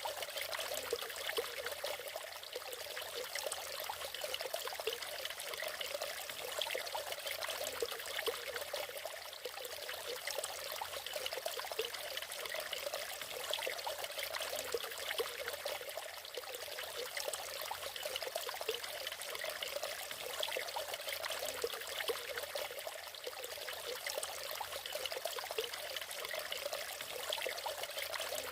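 Natural waterfall, water pouring and splashing steadily in a continuous light, splashy rush with a fine flickering spatter and little deep rumble.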